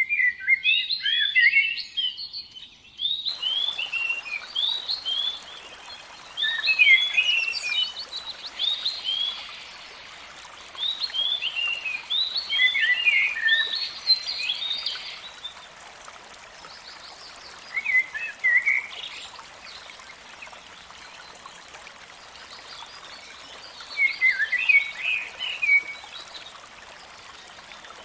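An animal's high chirping calls: bursts of quick downward-sweeping chirps, each burst a second or two long and several seconds apart, over a steady background hiss.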